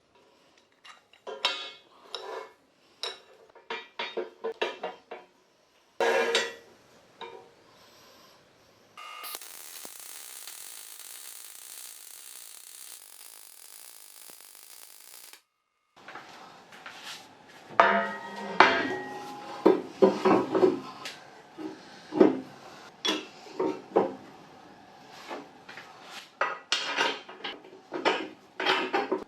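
Metal parts clinking and clanking as steel pieces are handled and knocked together, some strikes ringing. A steady hiss runs for about six seconds in the middle, and the clanking comes thicker and louder near the end.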